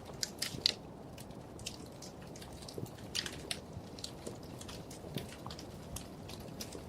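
Wood fire crackling in a fireplace: irregular sharp pops and snaps over a soft steady rush of the flames, the loudest snap about a second in.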